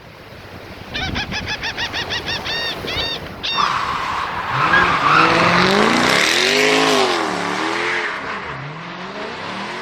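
A run of short, repeated squeaks for about two seconds, then a car engine revving up and down, loudest near the middle, with squealing noise over it.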